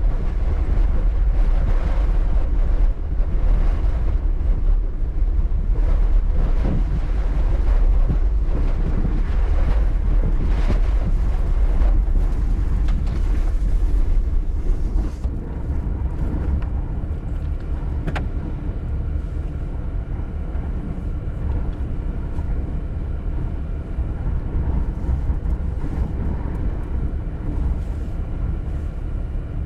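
Strong wind buffeting the microphone in a heavy low rumble, gusting for the first half and easing into a steadier, quieter rush about halfway through.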